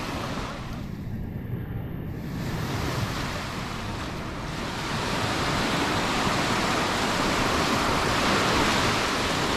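Sea waves breaking and washing up on the beach, a steady rush of surf that swells and grows fuller about five seconds in.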